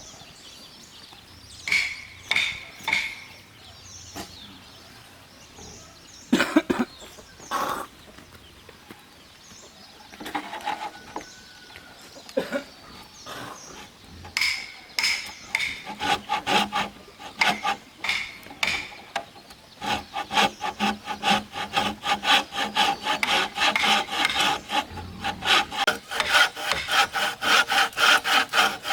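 Handsaw cutting through timber: a few separate strokes and a couple of knocks at first, then a quick, even back-and-forth sawing rhythm through the last third.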